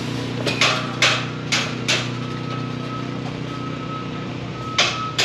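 Sharp hammer blows on a work site: a quick run of about five strikes in the first two seconds and two more near the end. Under them runs the steady hum of an idling engine. From about two seconds in, a vehicle's reversing alarm beeps at one high pitch.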